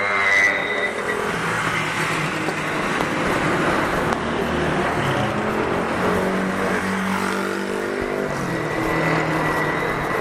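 City street traffic: motor vehicle engines running and passing, with one engine's drone holding steady for a few seconds past the middle.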